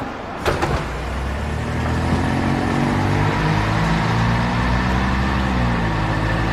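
A bus engine picking up speed as the bus pulls away. Its note rises over a second or so, then holds steady. A single knock comes about half a second in.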